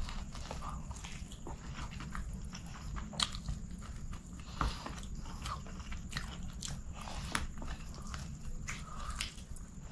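Close-up eating sounds of a person biting and chewing pieces of chicken and rice with the mouth: irregular wet smacks and small clicks, over a low steady hum.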